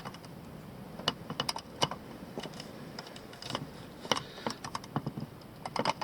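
A thin metal can being cut by hand, a run of irregular sharp clicks and crinkles of the sheet metal.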